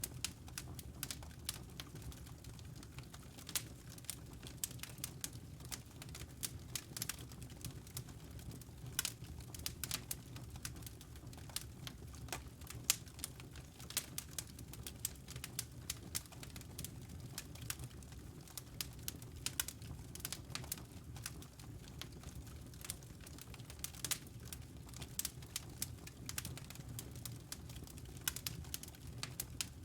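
Wood fire in a fireplace crackling: many irregular sharp pops and snaps over a low steady rumble.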